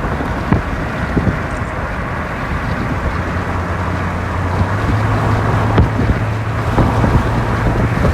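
Car driving: steady engine hum and road noise heard from inside the cabin, with a few scattered knocks from bumps. The engine hum grows stronger and a little higher about three to five seconds in.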